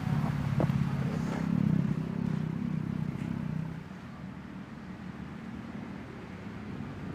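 A motor vehicle engine running nearby, louder for the first few seconds and then dropping away to a quieter hum about halfway through.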